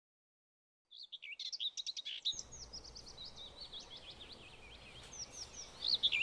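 Silence, then from about a second in, many small birds chirping and twittering over faint outdoor background noise; the chirping grows louder near the end.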